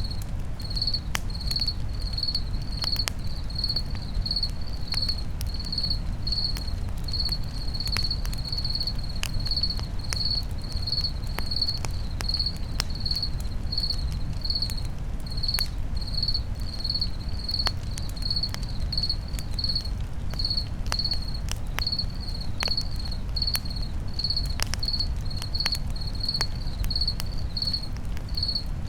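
A cricket chirping steadily, about two short high chirps a second, over the crackle and pop of a wood campfire and a low steady rumble.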